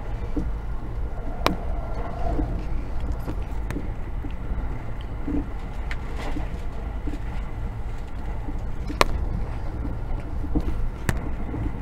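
Cabin noise of a JR 683 series 4000 electric limited-express train running at speed: a steady low rumble, with a few sharp clicks.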